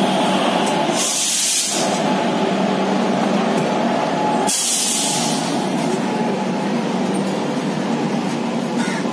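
Duronto Express passenger train running, a steady rumble with a faint hum, broken twice by a short hiss, about a second in and again near the middle.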